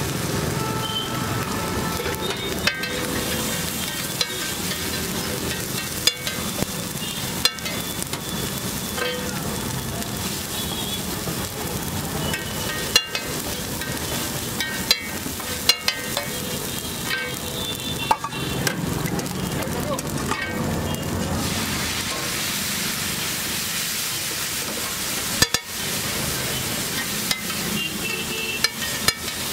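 Egg mixture sizzling steadily on a flat street-food griddle (tawa) while a steel spatula chops and scrapes it. Sharp clacks of the spatula striking the griddle come at irregular intervals.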